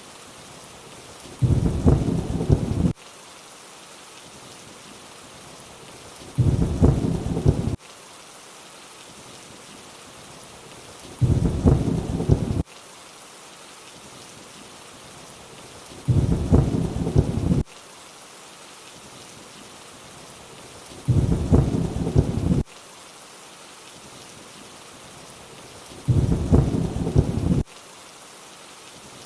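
Steady rain hiss with six short low thunder rumbles repeating about every five seconds, each lasting about a second and a half and cutting off abruptly.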